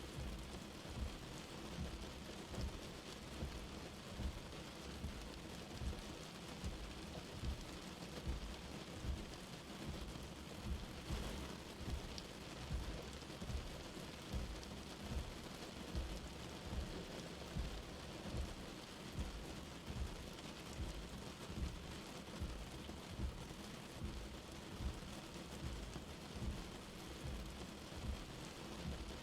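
Light rain falling steadily, an even hiss with frequent soft low thuds of drops landing close by, about one a second.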